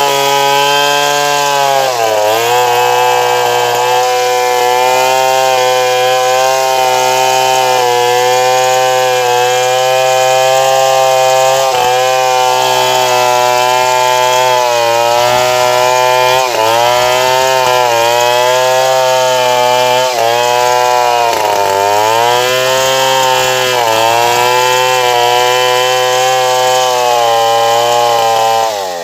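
Stihl 070 two-stroke chainsaw running at high revs while cutting wood, its pitch dipping and recovering several times as the chain bogs in the cut. The engine starts to wind down right at the end.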